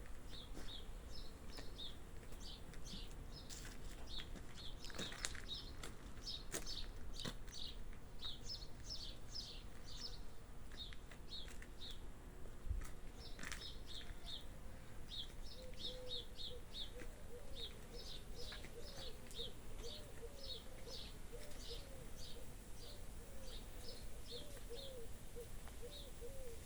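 Birds chirping outdoors: short, high chirps repeat throughout. About halfway through, a second, lower-pitched call joins in, a run of short notes about twice a second.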